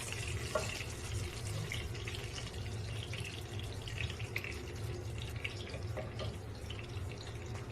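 Marinated chicken pieces frying in hot olive oil in a pan: a steady sizzling hiss with small crackles and pops, over a low steady hum.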